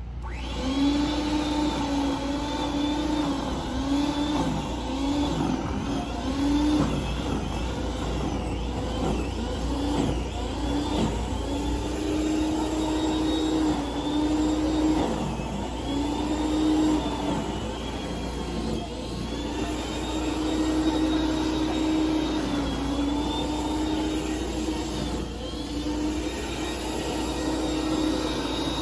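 Snowblower's small gas engine running, its pitch dipping briefly every few seconds and recovering as it takes on load.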